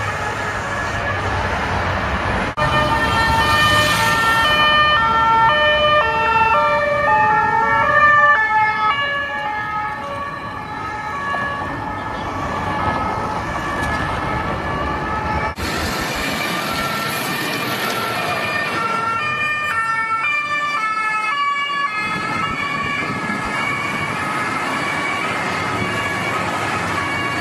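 French two-tone police sirens on unmarked police cars, alternating between two notes with traffic noise underneath. The sound changes abruptly twice as the clip cuts to another car.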